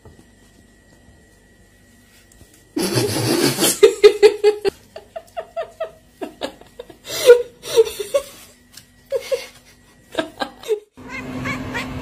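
Near quiet at first, then a person laughing in short repeated bursts, starting about three seconds in.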